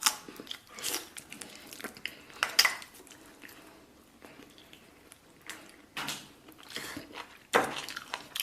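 Eating at the table: utensils clicking against a bowl, with wet chewing of braised beef and rice, in short scattered bursts.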